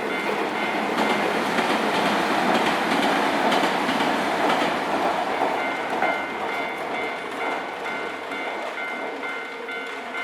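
A train passing over a level crossing, wheels clattering over the rail joints. The noise is loudest in the first half and fades after about six seconds. A Japanese level-crossing warning bell rings steadily and repeatedly throughout.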